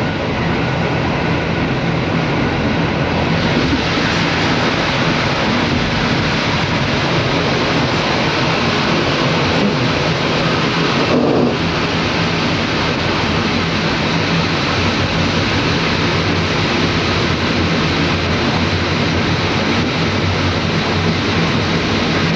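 A train running along the track, heard from inside its last car: a steady rumble of wheels on rails with a rushing noise over it.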